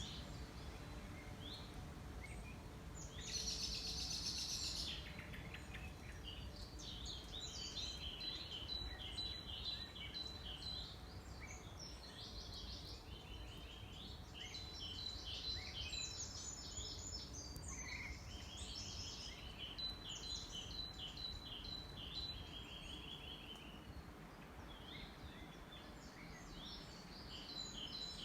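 Small songbirds singing in a run of short phrases, loudest about three to five seconds in, over a low steady rumble.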